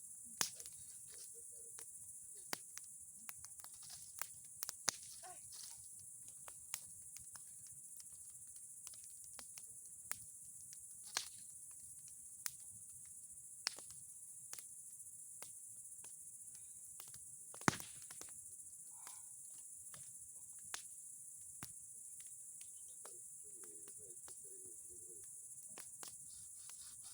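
A bonfire of old boards and pine cones crackling, with sharp pops at irregular intervals. Crickets chirr steadily and high in the background.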